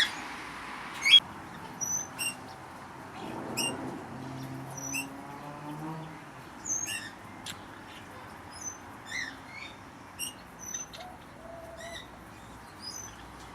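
Aviary birds chirping: short, high chirps repeating irregularly about once or twice a second, with a sharp click about a second in.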